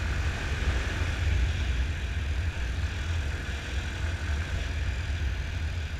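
Yamaha Fazer 250 motorcycle on the move, its single-cylinder engine running steadily, under heavy, unsteady wind buffeting on the microphone.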